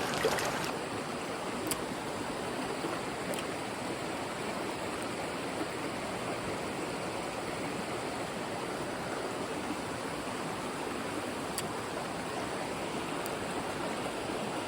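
Shallow mountain stream running steadily over rocks, an even rush of water.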